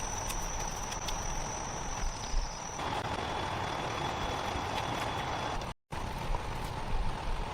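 Rainforest ambience: a steady hiss with a thin, continuous high insect tone that drops to a lower pitch about three seconds in. The sound cuts to silence briefly near the end.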